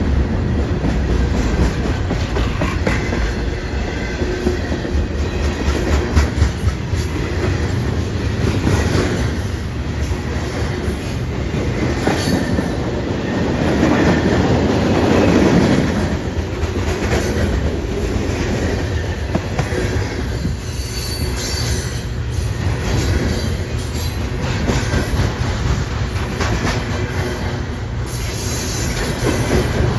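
A train's cars rolling past, wheels clattering over the rails, the sound steady and loud throughout.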